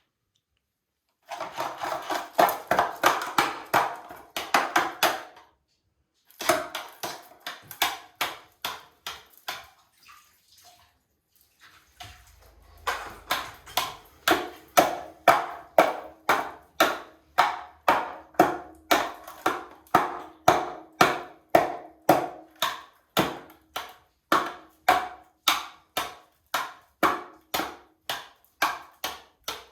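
A parrot's toy being struck over and over: sharp knocks, each with a brief ring. A quick flurry comes first, then a sparser run, and after a short pause a steady beat of about two to three knocks a second.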